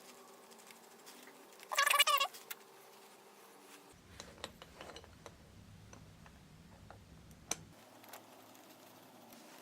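Scattered light clicks and taps of small carburetor parts being handled during reassembly, with one brief loud squeak about two seconds in.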